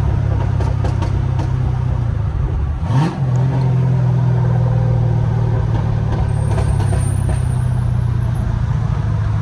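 Straight-piped Camaro SS 6.2-litre V8 with cats removed and Borla ATAK mufflers, running with a steady low exhaust drone on the move. About three seconds in, the pitch sweeps quickly upward and the level dips briefly before the drone settles again.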